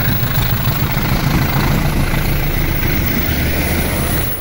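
Steady low rumble of a departing diesel-hauled passenger train: the coaches rolling past on the rails while the CC203 diesel-electric locomotive's engine works hard pulling away, heavy enough to throw out black smoke. The sound eases off a little near the end.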